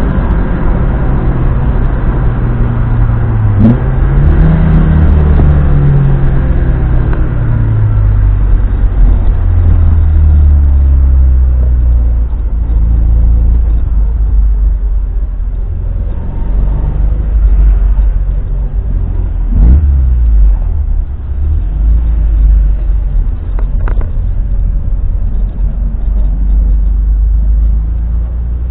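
Opel Manta B's four-cylinder engine: after a brief rise in pitch, the revs fall away in several sweeps over the first several seconds, then it runs at low, fairly steady revs.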